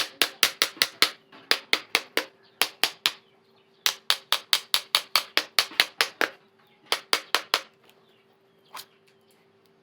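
Quick runs of sharp hammer taps on a car cooling fan's electric motor, knocking the housing loose to free the armature. The taps come about five or six a second in several bursts with short pauses, then one last single tap.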